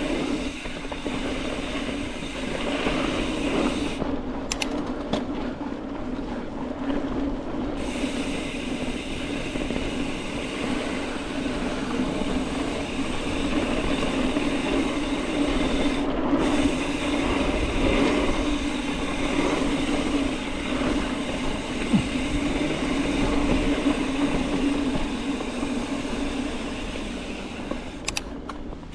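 Mountain bike rolling down a dirt trail: a steady tyre hum with rattle and rumble from the bike over the ground.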